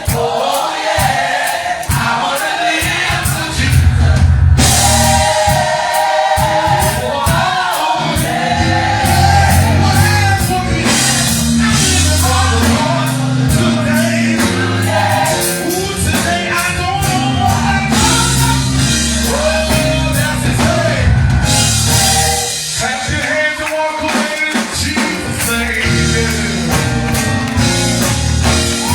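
Gospel choir singing over a live band, with drums and steady bass notes under the voices.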